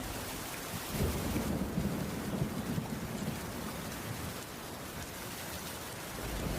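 Heavy rain falling steadily, with a low rumble of thunder rolling in about a second in and fading after a few seconds.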